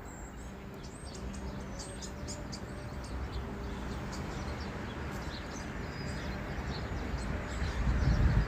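Small birds chirping in quick, rapid calls over a low steady rumble, which grows louder near the end.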